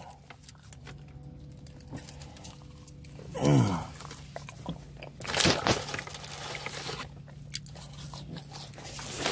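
Close-up chewing and crunching on fried fast food, with scattered crackly strokes. A short hummed "mmm" comes about three and a half seconds in, and a low steady hum runs underneath.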